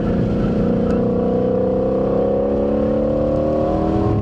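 Car engine accelerating hard under full load, heard from inside the cabin, its pitch rising steadily as the car picks up speed from about 44 to 68 mph out of a corner.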